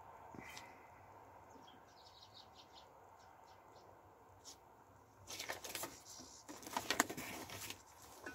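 Small garden birds chirping faintly, then two fluttering bursts of wing flapping, about five and about seven seconds in, which are the loudest sounds.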